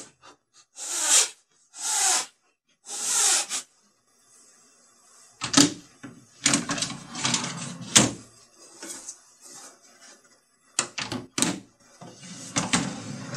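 Craftsman cordless impact driver running in three short bursts, driving screws through a metal drawer slide into a plywood drawer. Then a plywood drawer runs out and back on its metal roller slides, with clicks and knocks as it starts and stops.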